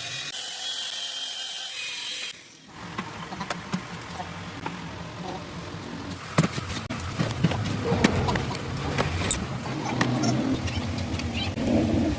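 Metal-repair workshop sounds. A high steady machine whine runs for the first two seconds or so and then cuts off. After that come irregular sharp metal knocks and clinks over a low hum, with the loudest knocks around the middle.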